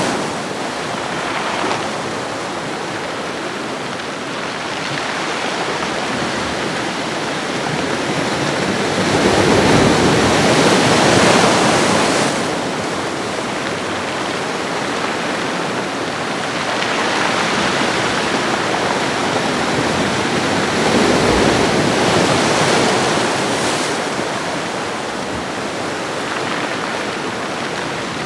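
Ocean waves washing onto a shore: a steady rush of surf that swells and eases, with a big surge around ten seconds in and another longer one around twenty seconds in.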